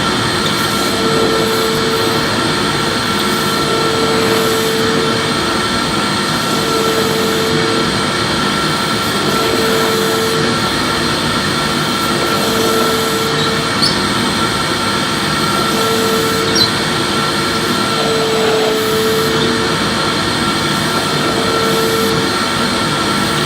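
Electric vacuum cleaner running steadily while vacuuming. Its hum rises and falls in a regular cycle about every two and a half seconds as it is pushed back and forth, with a couple of faint clicks near the middle.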